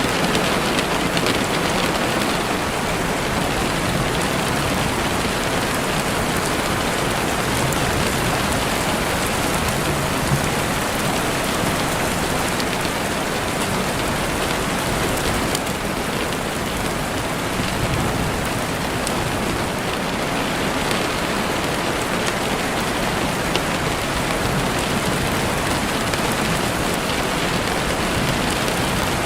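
Heavy rain beating steadily on a window, a dense even hiss with the odd sharper drop tick.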